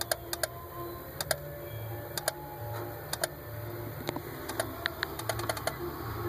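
2001 Daihatsu Terios flasher relay clicking in doubles and triples over a steady low hum. The clicks come about once a second at first, then turn quicker and uneven near the end. This clicking is the fault the owner cannot explain.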